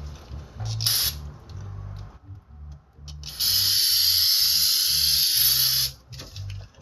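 Aerosol can of brake cleaner sprayed onto a brake rotor: a short hiss about a second in, then a long, steady spray of about two and a half seconds that cuts off sharply.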